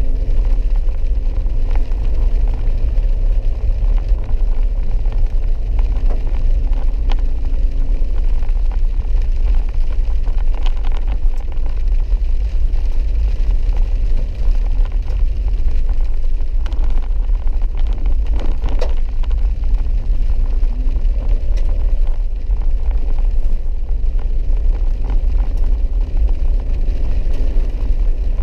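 Four-wheel-drive vehicle driving on a rough dirt road, heard from inside the cabin: a steady low rumble of engine and tyres, with an engine hum that shifts pitch a few times and occasional knocks from the road.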